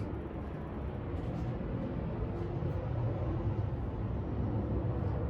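Hampton Bay Gazebo Plus ceiling fan running: a steady low hum and rush of air from the motor and spinning blades.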